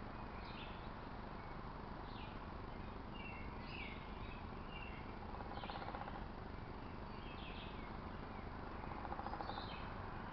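Small birds chirping in short, irregular high calls over steady outdoor background noise.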